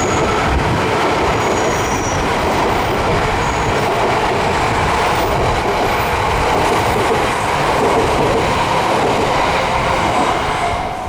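E6 series Shinkansen train passing over a level crossing: a loud, steady rush and rumble of wheels on rail that keeps up without a break.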